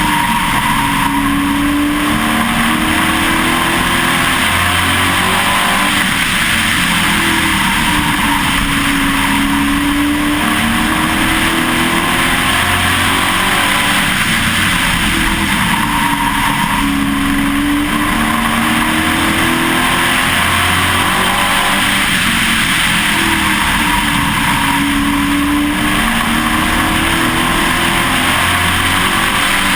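Pro Truck racing truck's engine heard from inside the truck, running hard through racing laps of an oval. Its pitch climbs on the straights and falls back into the turns about every eight seconds.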